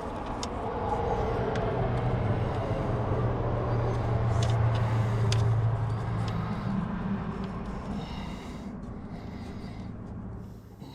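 A motor vehicle engine running, its low steady note swelling over the first few seconds and then fading away, with a few light metal clicks midway.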